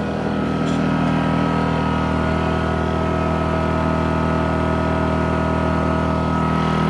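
WEN 1250-watt inverter generator running steadily at a constant pitch, the even engine note of a small portable generator heard up close.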